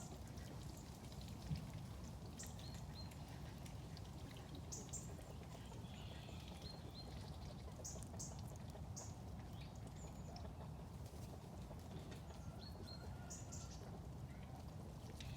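Birds giving scattered short, high chirps over a steady low background rumble, with one brief tap about a second and a half in.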